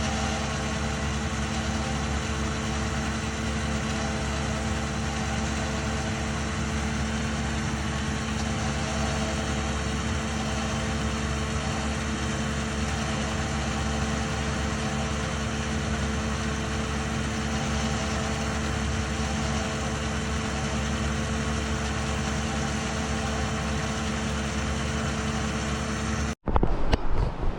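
Engine running steadily at constant speed, then cutting off abruptly near the end.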